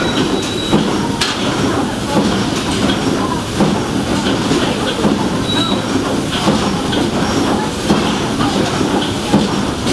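Steamboat's steam engine running, a steady mechanical din with a regular clank about three times every two seconds.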